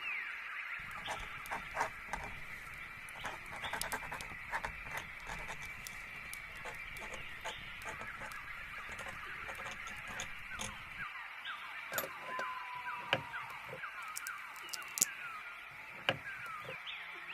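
Small birds chirping and twittering in a steady chorus, with scattered sharp clicks and ticks. A run of quick falling chirps comes in the second half, and a soft low rumble underneath stops about two-thirds of the way through.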